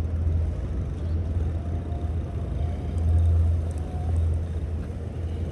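Steady low rumble of riding an electric fat-tire bike: wind on the microphone and the 20x4 fat tires rolling on the ground.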